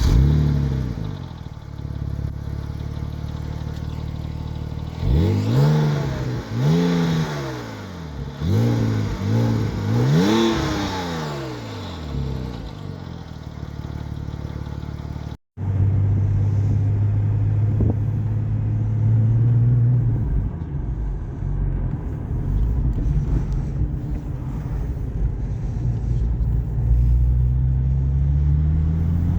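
Porsche 996 911 Turbo's twin-turbocharged flat-six starting with a flare and settling to idle, then revved in five quick blips and dropping back to idle. After a cut, the engine running steadily, its pitch rising slowly near the end.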